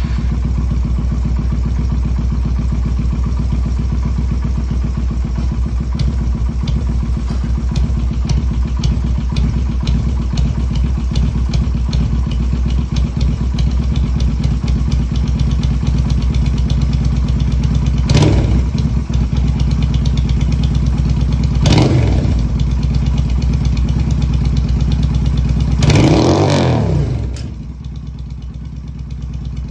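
Yamaha SRV250's V-twin engine idling right after its first cold start of the morning, with a steady pulsing exhaust note. Three short throttle blips rise and fall in the second half, the last the longest, after which the idle settles quieter.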